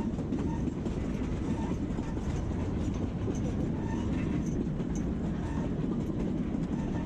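Narrow-gauge steam train rolling along the rails: a steady rumble with light wheel clatter.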